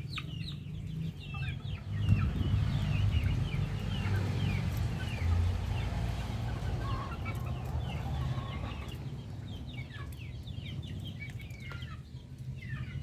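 A flock of adult chickens clucking at feeding time, many short calls overlapping throughout, over a steady low rumble.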